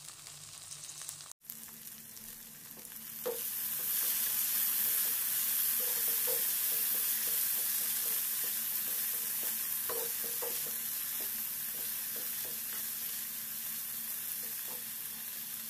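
Chopped cluster beans sizzling in oil in a non-stick frying pan while a wooden spatula stirs them, with occasional short scrapes of the spatula against the pan. The sizzle grows louder about three and a half seconds in.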